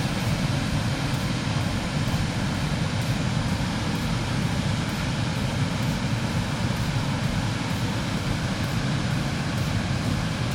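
Wind buffeting the microphone while riding a road bike: a steady, rough rumble with a hiss over it.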